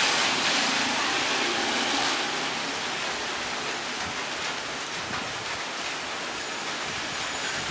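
Rain falling as a steady, even hiss, easing off a little in the first few seconds as the shower lets up.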